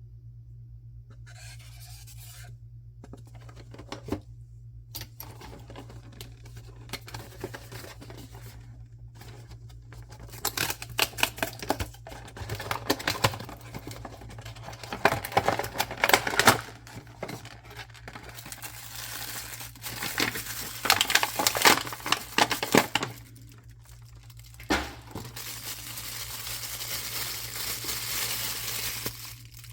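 Blind-box packaging being handled and torn open by hand: irregular bursts of crinkling and crackling with sharp clicks, then a steadier rustle near the end. A low steady hum runs underneath.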